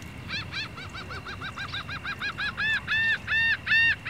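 A bird calling in a long series of short, arched piping notes that come quickly, then slow into longer, louder calls near the end.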